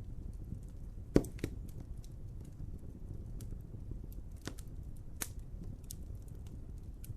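Wood fire crackling in a fireplace: a steady low rumble of burning with scattered sharp pops and snaps, the loudest pop about a second in.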